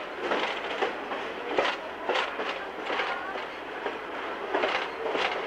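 Excursion train cars rolling along the track behind the Shay #5 steam locomotive: a steady rushing rumble with irregular knocks and clacks from the wheels and cars.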